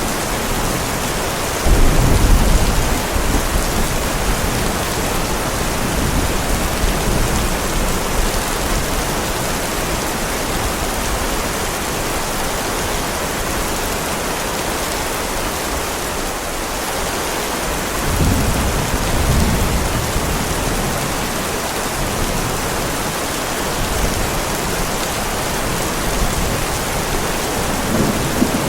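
Heavy rain falling steadily, with low rolls of thunder rumbling up about two seconds in, again about two-thirds of the way through, and once more near the end.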